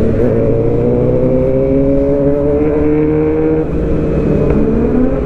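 Suzuki GSX-R750 inline-four with aftermarket headers, midpipe and slip-on exhaust running under throttle, its pitch climbing slowly, dropping about three and a half seconds in, then rising again near the end.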